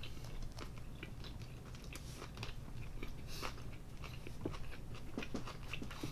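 Close-miked chewing: two mouths working on barbecue duck in soft steamed buns with cucumber, with irregular crunches and wet mouth clicks.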